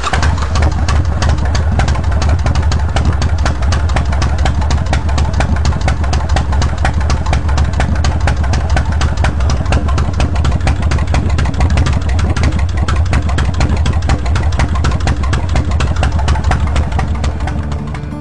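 Motorcycle engine idling steadily after start-up, a loud, even run of rapid firing pulses over a deep rumble.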